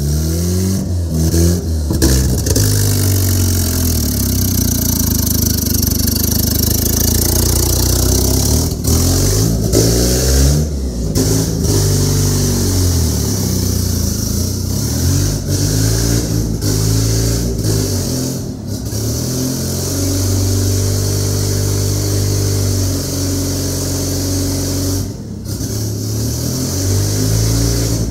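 Turbocharged single-cam VTEC four-cylinder in a Honda Civic hatchback running and being revved repeatedly. The pitch climbs and falls back several times, with a steady hiss over the engine note.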